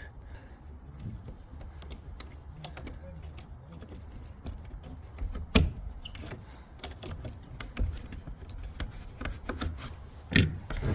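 Keys jangling as a lock is worked open, with a run of small clicks and rattles and two louder knocks, one about halfway through and one near the end.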